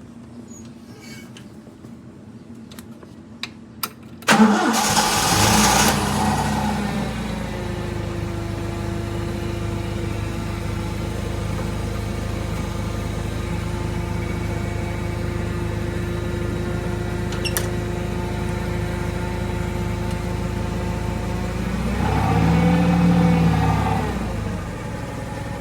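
Forklift engine started: a couple of clicks, then about four seconds in it catches at once with a loud burst and settles into a steady idle. About 22 seconds in it revs up briefly and drops back to idle.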